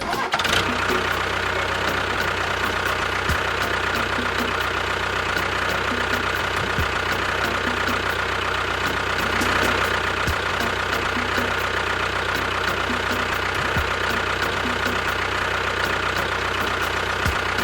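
Engine running steadily like a tractor idling, with a faint low knock about every three and a half seconds. It starts and stops abruptly.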